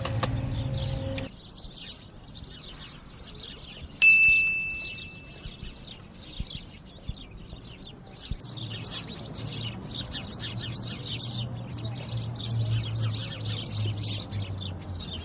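A flock of small birds chirping busily and continuously. About four seconds in, a single bright ding rings out and fades over a second or so. A low hum cuts off about a second in.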